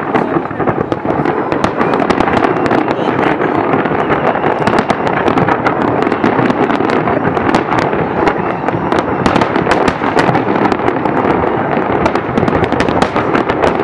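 Aerial fireworks display, loud: a dense, unbroken barrage of shells bursting and crackling, many sharp pops a second with no pause.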